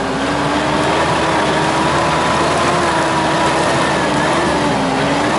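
Mitsubishi Pajero engine running at raised, fairly steady revs as the off-roader, stuck in a muddy rut, tries to pull out. The pitch wavers slightly and dips briefly near the end.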